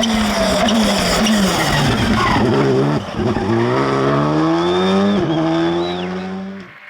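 Rally car engine driven flat out. The revs fall for a second or so as the car slows for a corner, then climb in rising sweeps with quick upshifts about three and five seconds in. A thin high squeal comes around five seconds in, and the engine note drops away sharply near the end.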